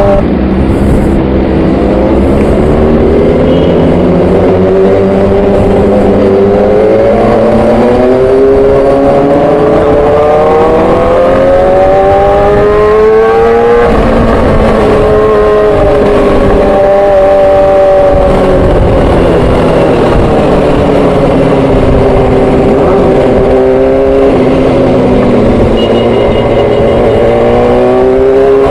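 Sport motorcycle engine running under way through city traffic. Its pitch climbs steadily through a long pull, drops sharply about halfway through, then falls and rises again with the throttle.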